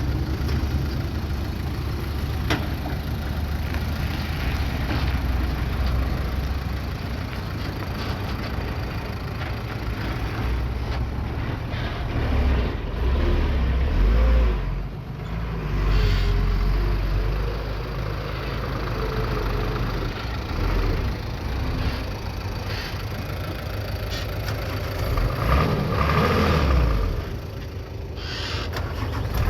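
Bulldozer's diesel engine running under load with a deep, steady rumble that swells and eases several times, with a few short knocks.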